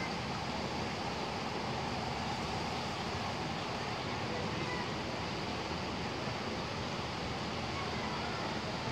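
Steady rain falling on a pond and palm trees: a continuous, even hiss.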